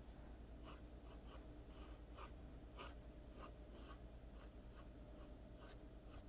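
Pencil on paper: quick, short, faint scratchy strokes, roughly three a second, as loose strands of hair are flicked in.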